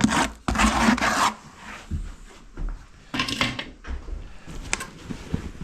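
Rough scraping and rubbing of masonry work on brick and mortar: one loud scrape about half a second in, then quieter scrapes and a few light knocks.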